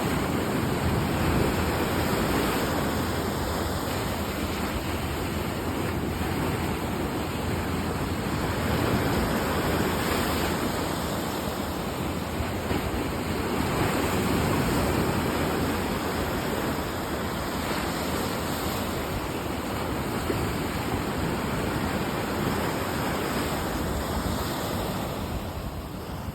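Rough sea: heavy surf breaking in a steady roar that swells and eases every few seconds, with wind noise on the microphone.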